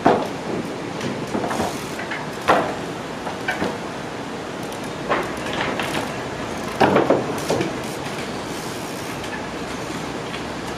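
Trials bike hopping and landing: sharp knocks and clatters from the tyres and bike striking hard surfaces, a few seconds apart with a quick cluster of hits past the middle, over a steady background noise.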